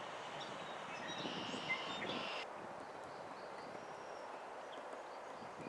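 Birds calling with short high chirps over a steady rushing background noise; the calls stop abruptly about two and a half seconds in, leaving only the background noise.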